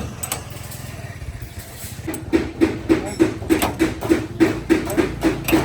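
Hammer blows on car body sheet metal, panel-beating accident damage: a quick even run of about three or four strikes a second begins about two seconds in, each with a short metallic ring, over a low steady hum.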